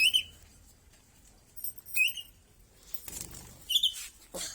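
Small pet bird giving short chirps, three about two seconds apart, with a brief flutter of wings.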